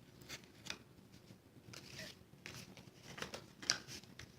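Cardstock being folded and its tabs tucked in by hand: faint rustling with a few short, sharp clicks, the loudest near the end.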